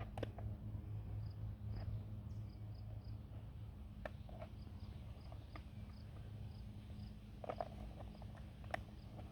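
Faint insects chirping, short high chirps repeating about every half second, with scattered clicks and crackles of a plastic cup being trimmed by hand; the clicks bunch up and are loudest near the end.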